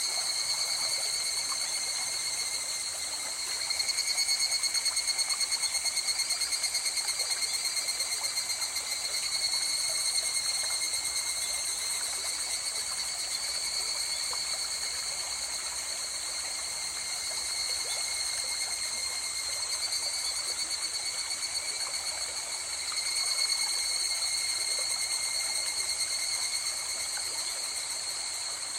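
A river flowing steadily, with a continuous high, rapidly pulsing chorus of calling animals over it that swells louder twice.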